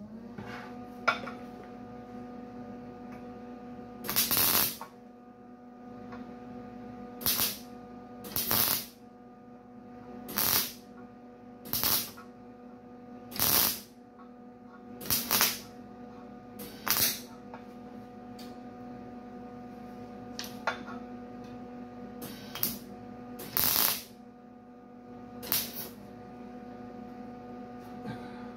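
MIG welder laying short stitch welds on thin sheet-steel grille bar: about a dozen brief crackling arc bursts, one every second or two, over the welder's steady electrical hum.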